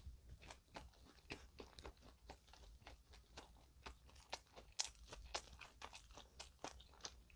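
Faint, irregular mouth clicks and soft crunches of people chewing a sauce-coated, bulgogi-filled bread with closed mouths.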